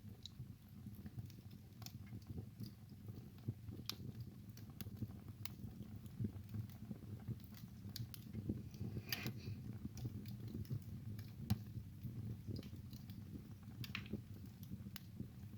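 Wood fire crackling in a fireplace: irregular sharp pops and snaps over a low steady rumble of the burning logs.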